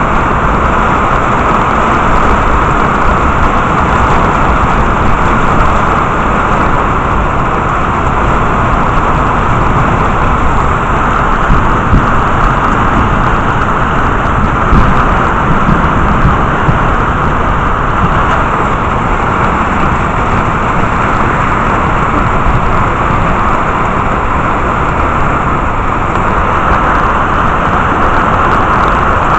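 Heavy rain falling steadily, a dense, even hiss with no distinct thunderclaps.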